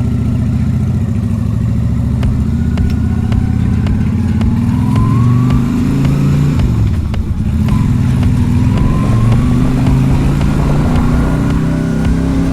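Yamaha Virago 250's V-twin engine running under way. The revs climb, drop sharply about seven seconds in with a gear change, then climb again.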